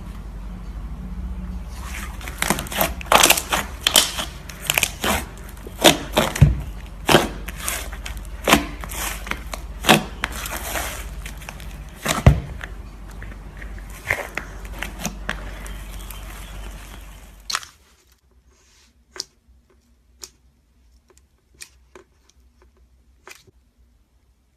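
Slime being squeezed and pressed by hand, giving a quick irregular series of sharp pops and crackles. It stops suddenly about 17 seconds in, leaving only a few faint clicks.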